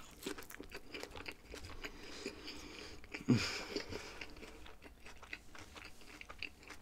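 A person chewing and biting food close to the microphone: a run of small wet clicks and crunches, with one louder short mouth sound about three seconds in.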